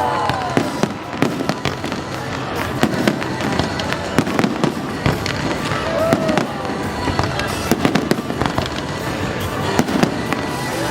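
Aerial fireworks bursting in a dense barrage: many sharp bangs and crackles in quick, irregular succession.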